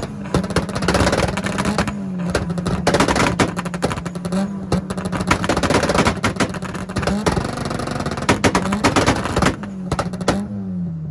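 Two engines, a Nissan truck's and a Mitsubishi's, held on two-step launch limiters at once: a steady, buzzing engine note with rapid popping and crackling from the exhausts. Near the end the pops stop and the revs fall away.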